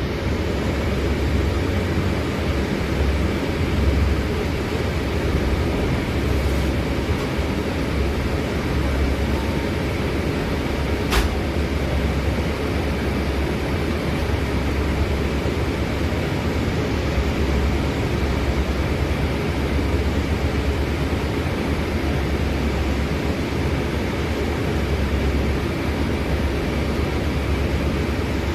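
Scania city bus under way, heard from inside: a steady low engine drone with road and cabin noise, and a single sharp click about eleven seconds in.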